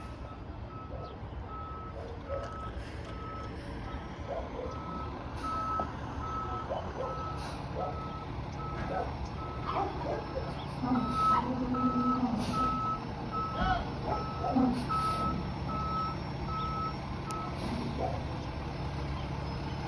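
A refuse truck's reversing alarm beeping steadily over its running engine; the beeping stops near the end.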